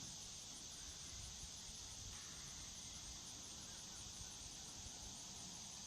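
Faint, steady high-pitched insect chorus with no other events.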